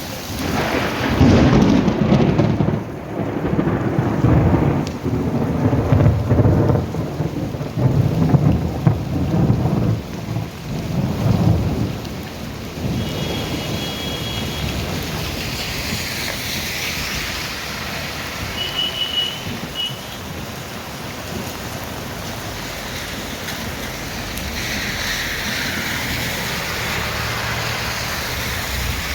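A long roll of thunder rumbling for roughly the first twelve seconds over steady rain, then the rain goes on alone as an even hiss.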